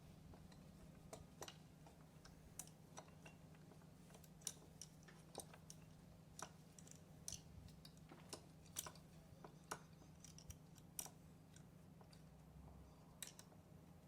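Faint, irregular clicks and light taps of hand tools and small parts being handled during outboard motor repair work, over a steady low hum.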